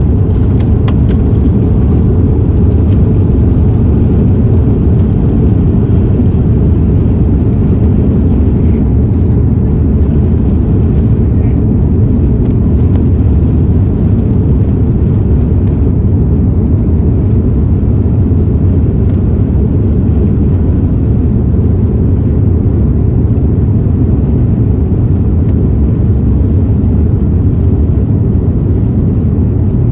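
Steady, loud rumble of an Airbus A330-300's Rolls-Royce Trent 700 jet engines and airflow inside the passenger cabin during takeoff.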